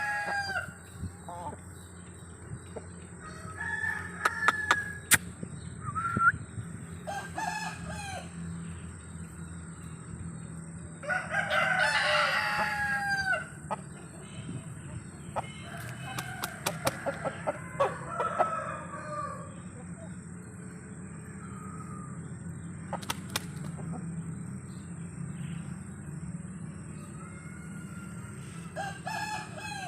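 Rooster crowing once for about two seconds, about eleven seconds in, likely a Japanese O-Shamo gamecock, with shorter clucks and calls from chickens before and after and a few sharp clicks. A steady low hum runs underneath.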